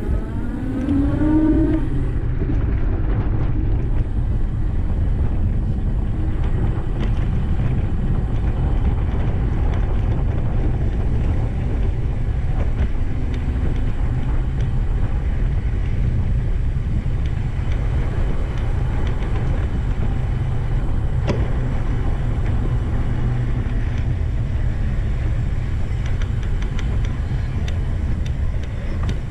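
Steady wind rush buffeting the microphone of a camera on a moving bicycle, a continuous low rumble.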